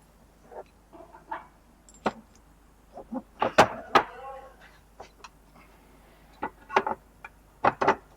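Irregular sharp knocks and clinks, the loudest pair about three and a half to four seconds in, followed by a brief ringing tone.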